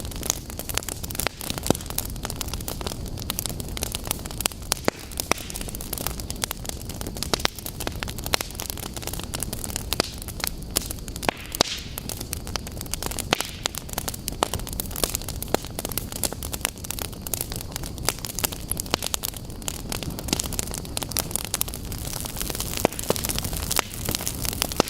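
Wood fire in a fireplace burning steadily: a low rumble of flames under frequent sharp, irregular crackles and pops.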